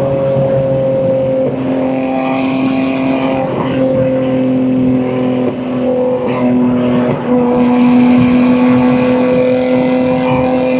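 BMW M2 G87's S58 twin-turbo inline-six, fitted with catless downpipes and an equal-length mid pipe, running at a steady cruise. Its exhaust note holds a near-constant pitch, dipping briefly every couple of seconds.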